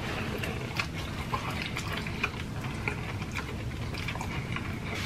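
Close-miked wet chewing and mouth sounds from people eating a burrito, with scattered small clicks and smacks over a low steady hum.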